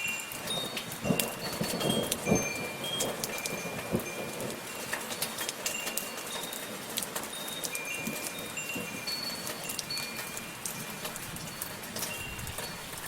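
Steady soft rainfall with scattered drops hitting a surface, and metal wind chimes ringing now and then in clear high single notes. A cluster of heavier drips lands in the first few seconds.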